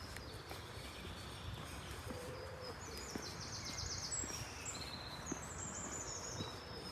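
Small birds chirping and trilling, with a fast run of notes about three seconds in and more chirps near the end, over a steady low background hum. Faint footsteps tap underneath.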